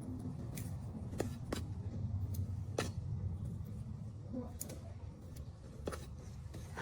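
A few sharp clicks or snips at uneven intervals over a steady low hum.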